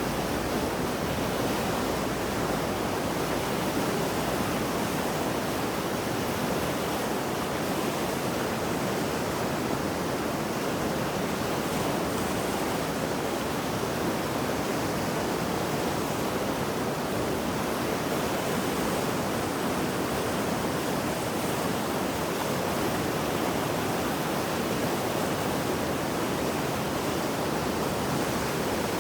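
Mountain river in flood after heavy rain, its fast water rushing in a steady, dense roar.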